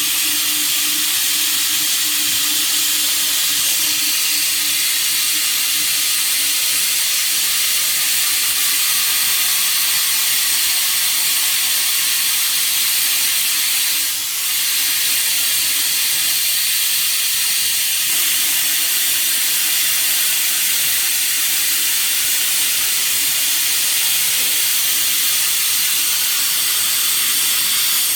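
Plasma cutting torch on a CNC pipe cutter hissing steadily as it cuts round pipe, with a faint steady hum underneath. There is a brief dip about halfway through.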